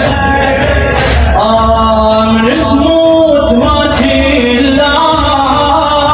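A man singing a drawn-out Arabic mourning elegy for Imam Hussein in long, wavering held notes, over a steady low musical backing.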